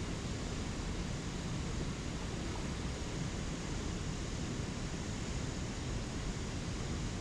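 Spring creek water rushing over small waterfalls, a steady, unbroken wash of sound.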